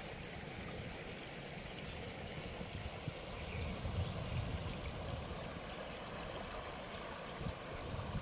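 Steady outdoor background noise with an uneven low rumble and faint short high chirps recurring about once a second.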